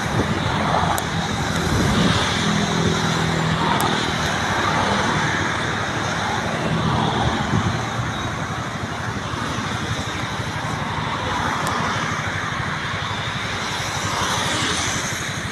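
Steady road traffic noise: a constant rushing hiss with a low engine hum, loudest in the first half.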